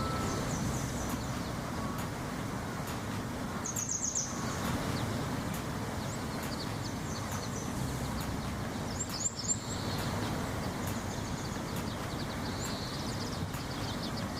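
Outdoor nature ambience: a steady background noise with a short burst of high bird chirps about every five seconds, twice.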